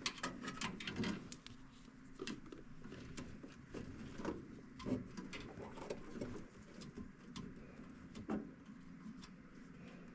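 Light clicks and taps of tools and parts being handled at a furnace, with a few louder knocks, over a low steady hum.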